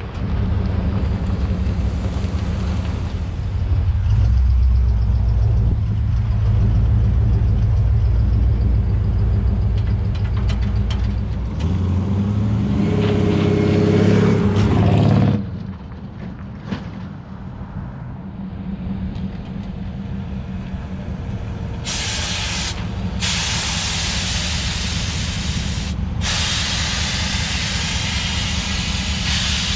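The 1957 Chevrolet 3100 pickup's 350 V8 running with a low rumble, which rises for a few seconds and then drops away abruptly about halfway through. Then, from about two thirds of the way in, the truck's air-ride suspension gives a loud hiss of air through its valves, broken twice by short gaps.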